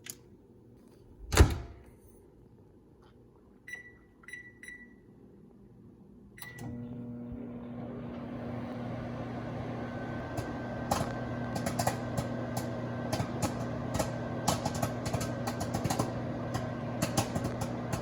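Microwave oven door shut with a thump, three keypad beeps and a start beep, then the oven running with a steady hum. From about ten seconds in, popcorn kernels in the bag start popping in sharp, scattered pops over the hum.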